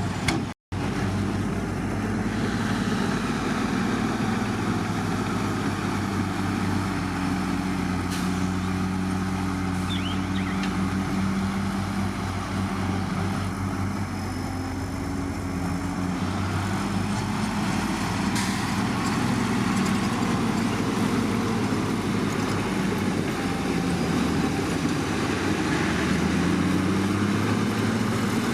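Heavy diesel engine of earthmoving equipment running continuously, its pitch shifting a little with load. All sound drops out for a split second just after the start.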